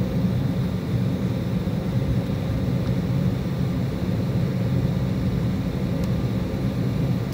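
Steady cabin noise of an Embraer E190 jet airliner in operation: a constant low rumble from its twin General Electric CF34-10E turbofan engines and the airflow, with a few faint steady tones above it.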